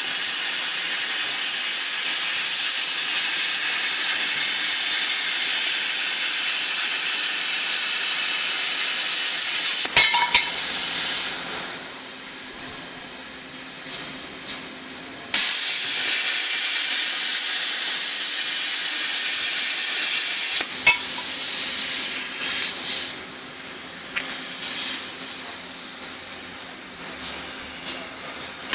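Portable CNC plasma cutter's arc hissing steadily while it cuts metal. The hiss stops with a click about ten seconds in, starts again suddenly a few seconds later, and stops again about two-thirds through, leaving short bursts of hiss.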